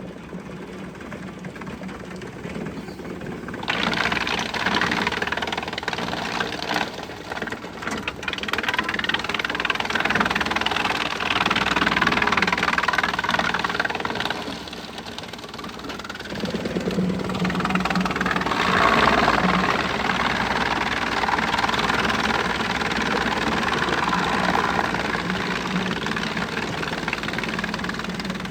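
Wood chipper's engine running steadily, with loud grinding and cracking as wood is fed in and chipped, starting about four seconds in. The chipping eases off briefly around the middle, then picks up again.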